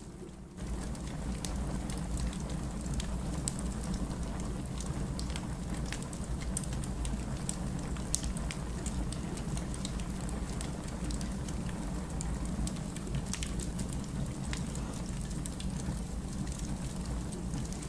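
Firewood burning in a fireplace: a steady low rumble of flames with scattered sharp crackles and pops.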